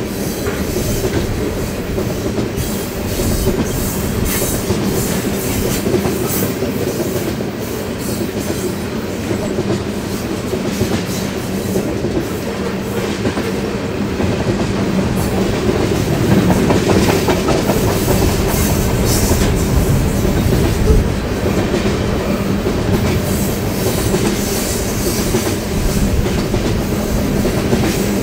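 A train rolling steadily past, its cars' wheels clicking over the rail joints over a continuous low rumble, a little louder in the second half.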